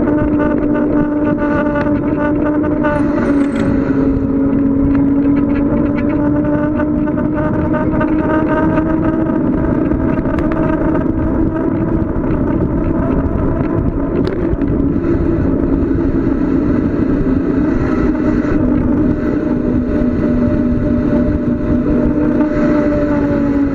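Steady rushing wind noise on the microphone during a fast downhill bicycle ride, with a droning tone that drifts slowly in pitch.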